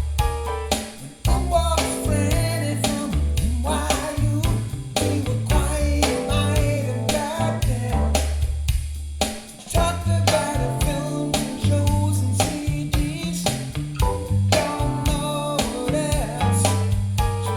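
Recorded music with a singing voice, guitar, drums and a heavy bass line with a steady beat, played back through Klipsch RF-7 III floorstanding speakers.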